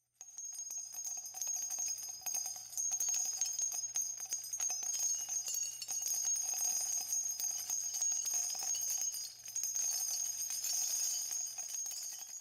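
High, continuous jingling of shaken bells, a shimmering cluster of ringing tones over many small clicks, with no band playing under it.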